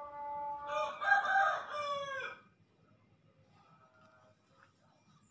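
One long bird call lasting about two and a half seconds, louder from about a second in and falling in pitch at its end, followed by a few faint chirps.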